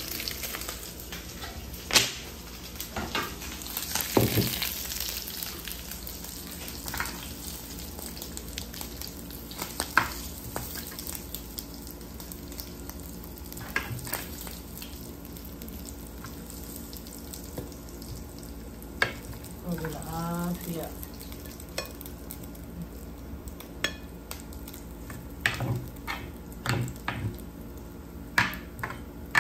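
Chicken breast pieces sizzling in a grill pan just after the gas burner is switched off: a steady hiss with scattered sharp clicks and pops.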